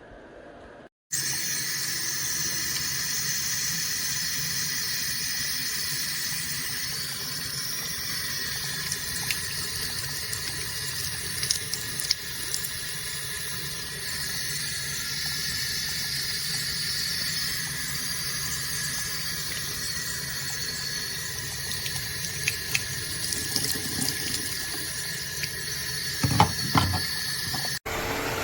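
Eureka cordless wet-dry floor vacuum running: a steady motor whine over a watery hiss as it picks up water. It starts abruptly about a second in and cuts off just before the end.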